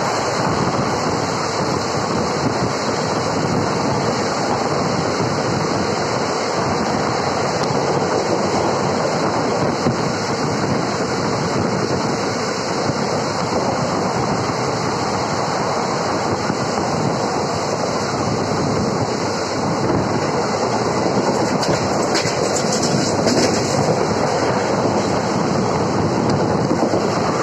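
Passenger train coach running at speed, heard from its open doorway: a steady rush and rumble of wheels on the rails, with occasional sharper clacks.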